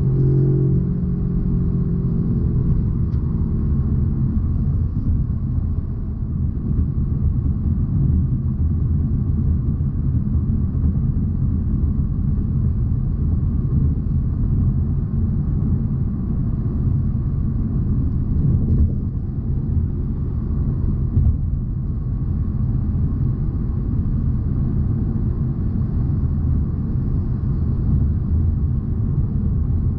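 A 2020 Jaguar XE P300 on the move: a steady low rumble of its tyres and its turbocharged 2.0-litre four-cylinder. A pitched engine note dies away over the first few seconds.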